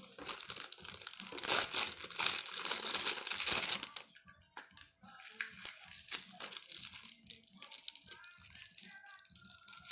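Crinkling packaging as a small toy packet is unwrapped: loud, dense crackling for about four seconds, then softer, scattered rustles.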